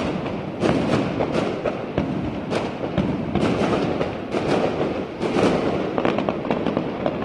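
New Year's fireworks display going off in a dense, continuous run of bangs and crackles, many shells bursting close together with no pause.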